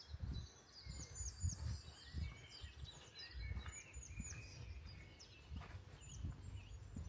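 Small birds chirping and singing, including quick runs of three high down-slurred notes, over irregular low muffled thuds.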